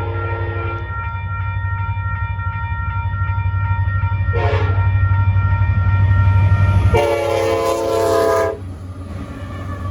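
Union Pacific diesel locomotive's air horn sounding at a grade crossing: a long blast ending about a second in, a short toot near the middle and a long blast near the end, the last part of the crossing signal. The locomotive's engine rumble grows louder and drops off sharply as the last blast starts. A steady ringing tone, the crossing bell, runs underneath.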